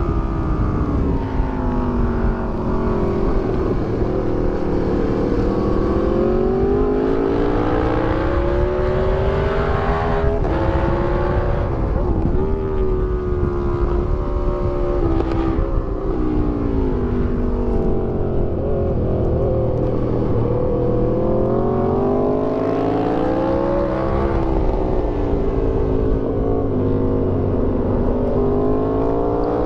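2008 Aprilia Tuono 1000R's V-twin engine, breathing through an Akrapovic exhaust and velocity stacks, revving hard and shifting: its pitch falls under deceleration several times and climbs again under acceleration, with quick breaks at the gear changes. Steady wind rush runs underneath.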